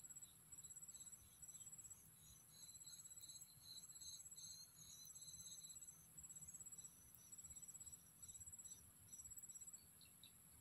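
Crickets chirping faintly: short, rapid high-pitched trills repeated about once a second, over a steady high insect drone.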